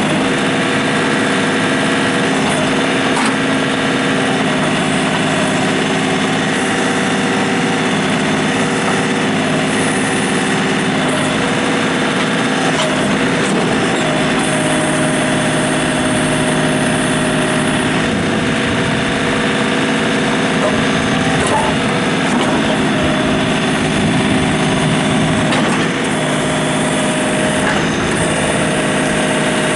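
John Deere 3720 compact tractor's three-cylinder diesel engine running steadily, its pitch shifting a little now and then.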